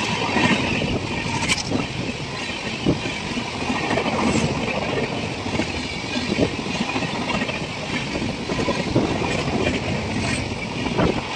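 Express train coaches running past at speed, a steady rush of wheel and air noise with irregular clatter of wheels over the rails.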